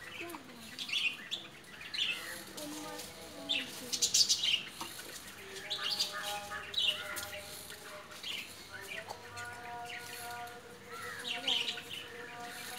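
Birds chirping in short, high, falling calls every second or two, with a steady droning tone in stretches between them.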